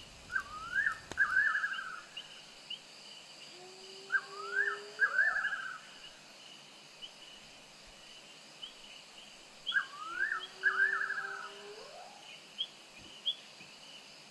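A bird repeating a short whistled phrase, a quick rising note followed by a trill, three times about five seconds apart, over a steady insect trill with small chirps. Twice a lower call rises in pitch alongside the bird's phrase.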